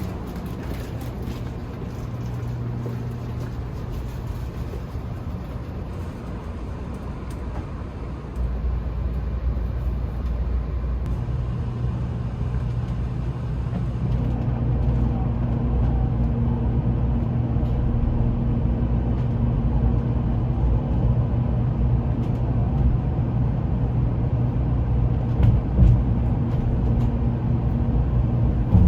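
Shinkansen train running: a steady low hum with a constant drone. It steps up about eight seconds in and grows louder from about fourteen seconds on.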